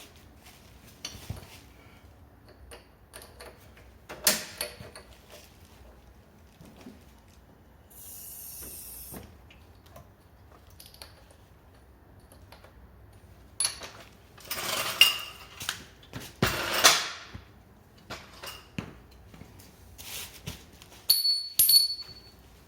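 Metal tools and parts being handled: scattered clinks and knocks, louder clatter in the middle, a short hiss and a brief high squeak near the end.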